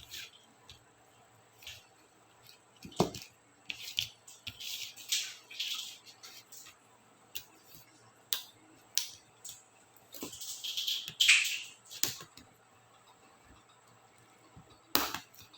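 Laptop keycaps being pried off the keyboard: scattered sharp plastic clicks and snaps, with two stretches of scratchy scraping, the louder one about two-thirds of the way through.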